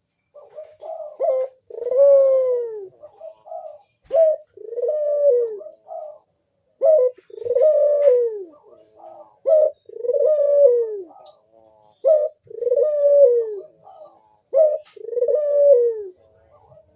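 Burung puter (Barbary dove) cooing in its 'manggung' display call: six repeated phrases, each a short note followed by a longer, drawn-out coo that falls in pitch at the end, about every two and a half seconds.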